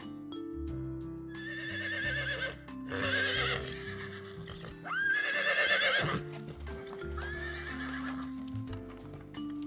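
Horse whinnying four times, each call about a second long and wavering in pitch, the loudest about five seconds in, over background music with sustained tones.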